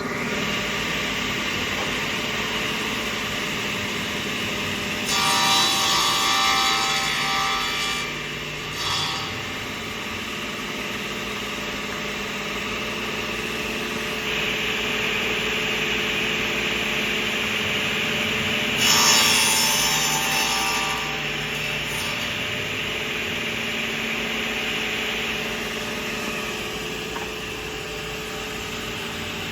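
Wadkin sliding table saw running steadily, with two louder stretches, about five seconds in and again near the two-thirds mark, as the blade cuts through wood.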